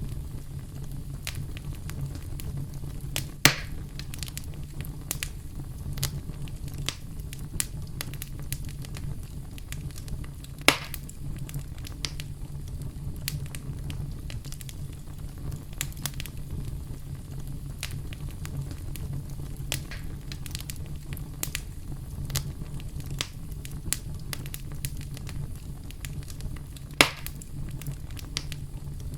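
Campfire crackling: a steady low rumble of burning with many small snaps and clicks, and three louder pops, one about three seconds in, one about eleven seconds in and one near the end.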